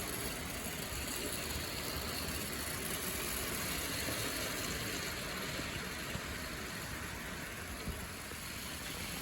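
Clockwork toy train's spring-wound motor whirring steadily as it runs on the track.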